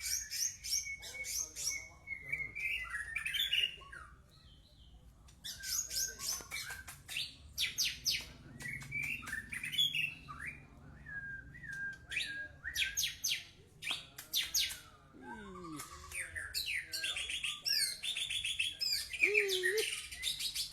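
White-rumped shama singing: bursts of rapid high trills and clear whistled phrases, separated by short pauses.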